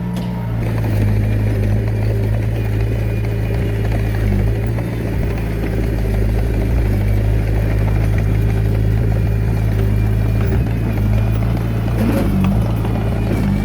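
Komatsu D21A mini bulldozer's diesel engine running steadily, its loudness even throughout.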